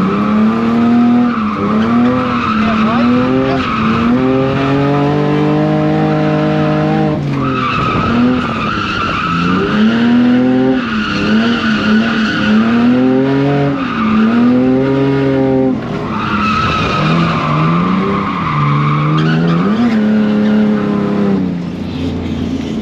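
E46 BMW drift car sliding. The engine revs up and down over and over as the throttle is worked, and the tyres squeal in long stretches.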